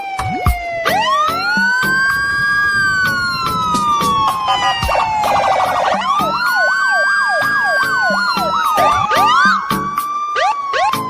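Siren-like wailing tones sliding slowly up and down, with quick rising whoops and a burst of rapid up-and-down sweeps about two-thirds of the way through, over a fast electronic beat.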